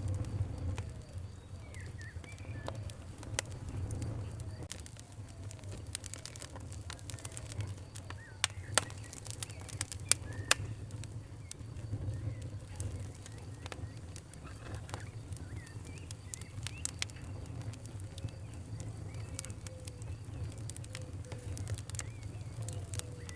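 Wood fire crackling, with irregular sharp pops over a steady low rumble; the loudest pops come about nine and ten seconds in. Birds call in the background.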